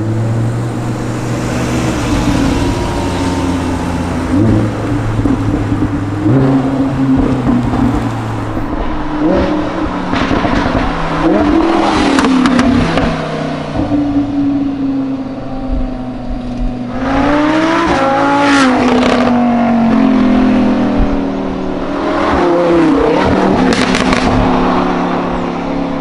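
Lamborghini Huracán LP610-4's naturally aspirated V10 running through an Akrapovic titanium exhaust. The engine holds a steady note with several brief rises and falls in pitch, and crackles come with some of those rises.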